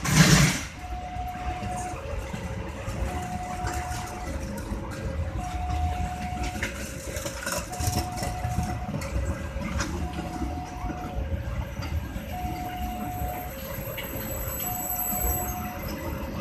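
Railway level-crossing warning alarm sounding its two-tone signal, a higher tone and a lower tone alternating about once a second, over steady road-traffic rumble. A loud noise cuts off within the first second.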